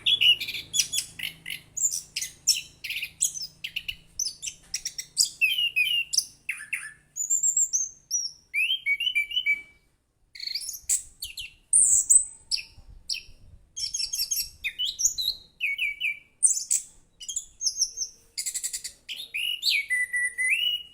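Chestnut-capped thrush (anis kembang) singing without letup: a fast run of varied high chirps, trills and whistled phrases, with a short pause about ten seconds in.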